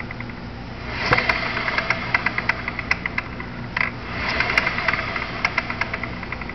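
Abnormal noise from a vehicle's rear wheel: rapid regular ticking, about six clicks a second, over a steady running hum, swelling louder twice. The owner cannot tell whether it comes from the gears or from the wheel bearing.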